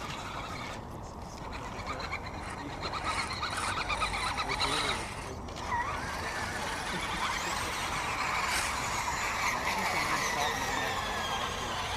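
Electric motors and gear trains of radio-controlled crawler trucks whining, several at once, the pitch rising and falling as the throttles are worked.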